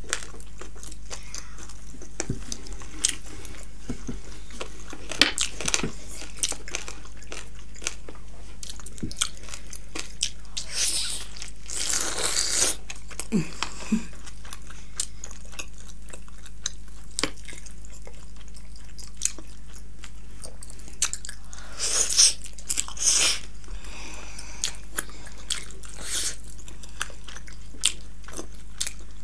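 Close-miked eating: biting and chewing of juicy steamed buffalo momo dumplings and fried chicken lollipop, with many short wet mouth clicks and smacks. There are a few longer, louder bursts of eating noise, about eleven and again about twenty-two seconds in.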